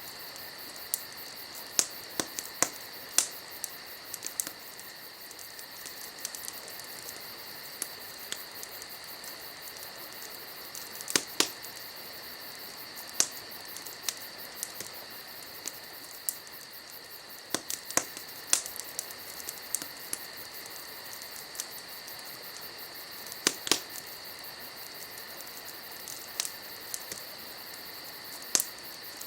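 Wood fire crackling, with irregular sharp pops, over a steady high-pitched chirring of insects.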